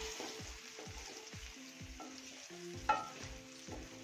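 Diced potatoes sizzling in hot ghee and tomato masala in an aluminium karahi while a wooden spatula stirs them, scraping and knocking against the pan several times a second. A sharper knock comes about three seconds in.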